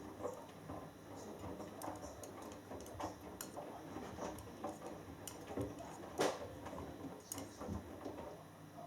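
Hoover Dynamic Next washing machine in its load-weighing (KG Mode) phase at the start of a cotton wash: the drum turning slowly with the laundry inside, giving irregular clicks and knocks over a low steady background, one louder knock about six seconds in.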